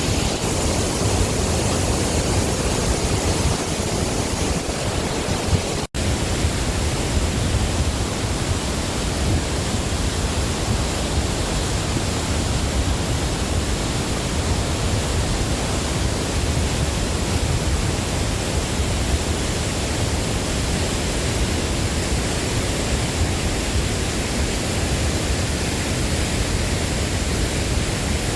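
Steady roar of Tännforsen, a large waterfall on the Åreälven river, heard close by as an even rush of water. It drops out for an instant about six seconds in.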